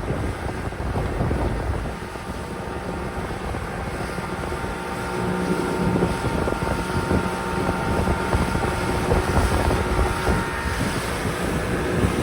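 A boat's motor running steadily, with wind rushing over the microphone.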